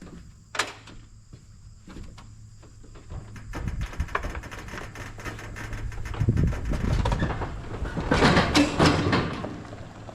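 Ford 8N tractor rolling off a trailer under its own weight, engine off: a building rumble and clatter of tires and the deck, loudest in the last few seconds, then dying away.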